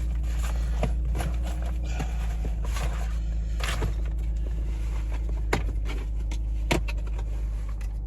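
Steady low hum of a car's idling engine heard inside the cabin, with several sharp clicks and knocks over it.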